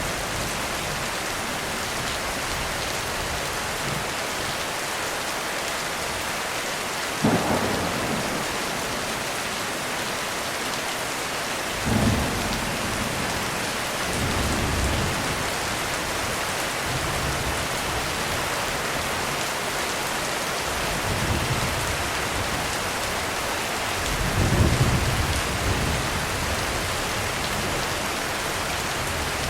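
Heavy rain falling steadily on a roof, with thunder: a sharp clap about seven seconds in, another about twelve seconds in, then several low rolling rumbles, the loudest near the end.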